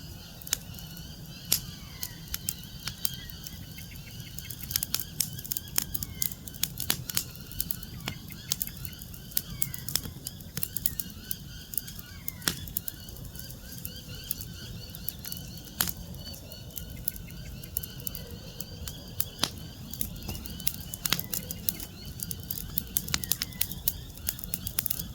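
Wood fire crackling and popping in irregular sharp snaps, with birds giving short falling chirps.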